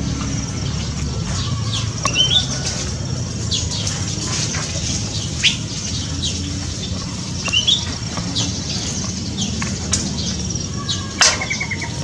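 Several birds chirping, with scattered short high notes, a few quick rising chirps and sharp clicks, over a steady low hum.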